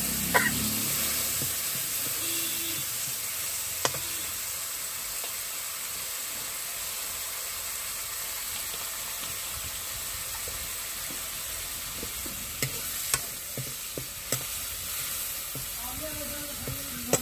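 Spice paste with ground spices sizzling in hot oil in a pan as it is stirred and fried down (the koshano stage of a Bengali curry), a steady hiss with a few sharp clicks of the stirring utensil against the pan.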